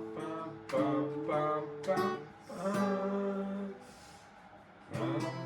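Acoustic guitar strummed chord by chord by a learner practising a piece, each chord left ringing, with a short pause about four seconds in before the next strum.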